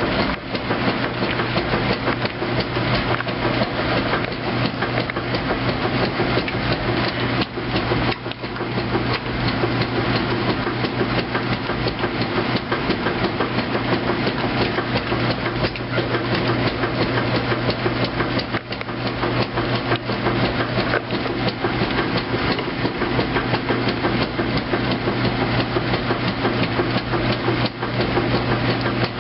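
2008 Kenmore top-load washer agitating on its heavy duty cycle: the motor and transmission hum steadily under a rapid, continuous knocking as the agitator swings back and forth.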